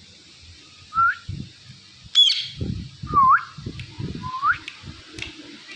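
Indian ringneck parakeet whistling: three short notes that dip and then swoop upward, with one short shrill call about two seconds in.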